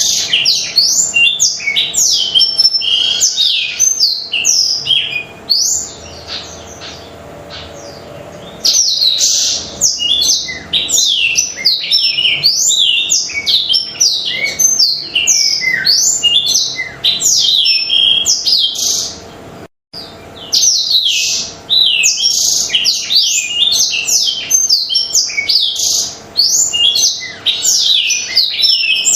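Black-throated canary (blackthroat) singing energetically: a fast, continuous stream of quick, high, downward-sweeping notes. It eases into a quieter lull about six seconds in and picks up again around nine seconds, and it cuts out for a moment around twenty seconds.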